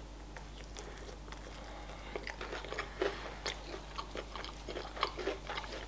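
Fingers being licked and sucked clean, then close-up chewing of crispy fried chicken wings: quiet, scattered crunches and wet mouth clicks, growing more frequent about two seconds in.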